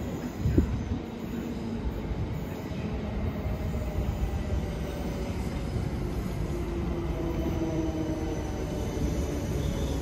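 South Western Railway electric multiple unit moving along the far platform: a steady rumble of wheels on rail with a faint whine over it. A brief thump sounds about half a second in.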